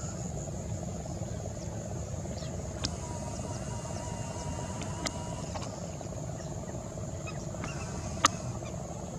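Steady high drone of insects, likely crickets, over a low steady rumble, with three sharp clicks, the last one the loudest near the end.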